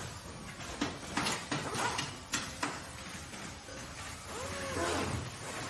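Workshop machinery noise over a steady low hum: a quick run of sharp knocks and clatters about a second in, then a brief squeal that rises and falls near the end.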